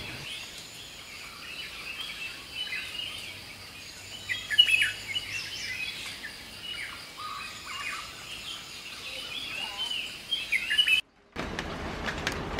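Wild birds chirping and calling, many short overlapping chirps, loudest about four and a half seconds in. Near the end the sound cuts out for a moment and gives way to a steady hiss of room noise.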